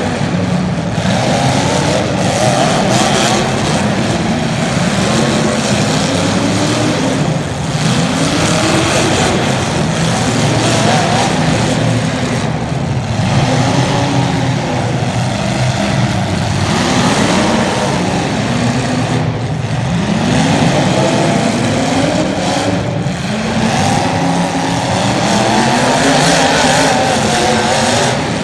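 Several race car engines running hard in a pack, their pitch climbing and dropping again every two to three seconds as they accelerate and lift around a short track, with the arcs of different cars overlapping.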